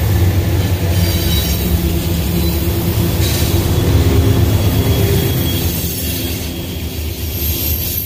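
Union Pacific diesel locomotives passing close by with their engines running in a loud, deep hum. The hum eases about six seconds in as the locomotives go by and covered hopper cars roll past.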